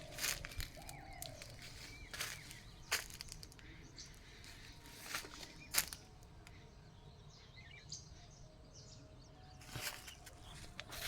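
Outdoor ambience with faint bird calls and chirps, broken by scattered sharp clicks and rustles.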